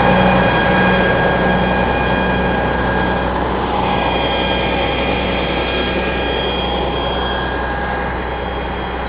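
Heavy truck engine running steadily with a high, even whine over a low hum, slowly fading.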